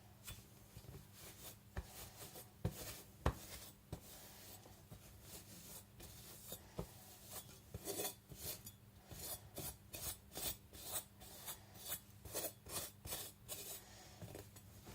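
Rubbing strokes on a Japanese nakiri blade, scattered at first, then a steady run of quick back-and-forth strokes about two a second through the second half, over a faint low hum.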